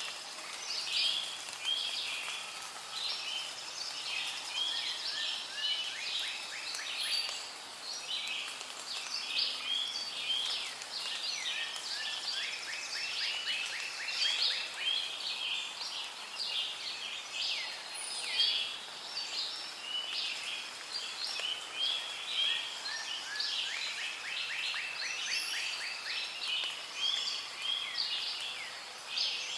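Rainforest ambience: a dense chorus of many overlapping bird calls and chirps, with a few fast trilled runs of repeated notes.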